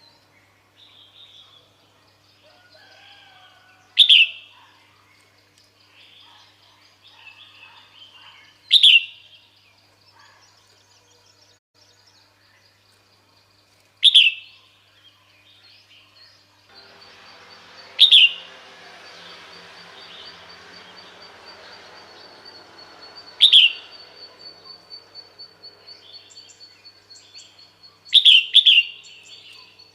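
Female red-whiskered bulbul calling: short, sharp, downward-sweeping notes repeated about every five seconds, with a quick double note near the end. This is the female's call used to draw males in. A steady background hiss comes in about halfway through.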